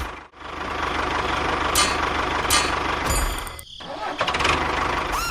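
Small motor of a mini tractor-type machine running with a rough, noisy sound and a few sharp clicks. The sound drops out briefly near the start and again about two-thirds through.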